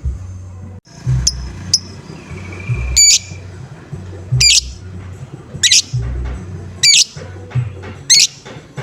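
Lovebird giving short, harsh squawking calls, the 'ngoek-ngoek' call, about seven times at roughly one per second. Backing music with a steady low beat plays underneath.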